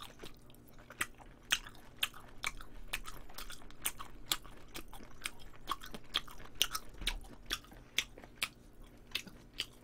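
Close-miked chewing: a person eating, with many small, irregular mouth clicks and smacks.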